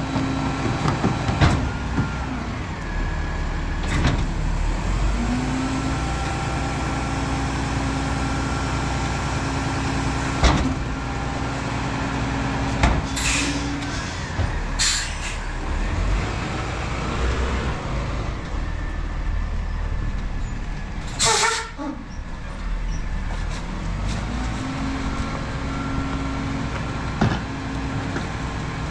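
Autocar ACX Heil rear-loader garbage truck running, its engine tone stepping up for long stretches, with about three short sharp hisses of air from its air brakes and a few knocks.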